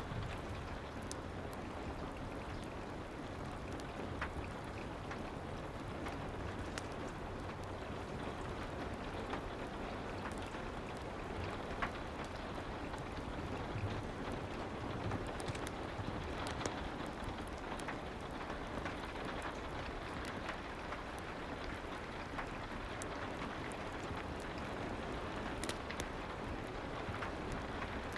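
Steady soft rain ambience mixed with a fireplace, with scattered light clicks and crackles over an even hiss.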